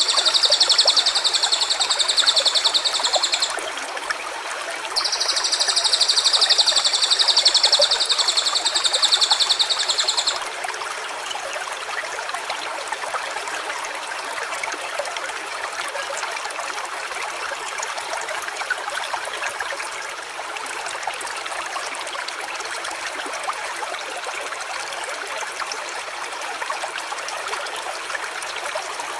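Small stream running steadily, with a high, rapid pulsing trill sounding twice over the first ten seconds, each held for several seconds and louder than the water.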